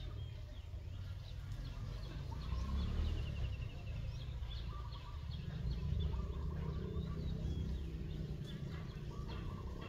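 Birds chirping and giving short trills throughout, over a steady low rumble.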